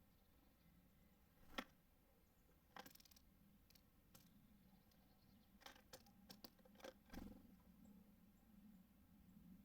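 Faint, irregular taps and clicks of small birds at a feeder: a dozen or so sharp ticks, scattered singly and in small clusters, mostly in the second half.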